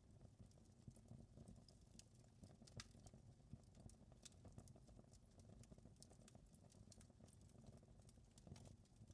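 Faint wood fire crackling: irregular small pops and snaps, a few sharper ones, over a low steady rumble.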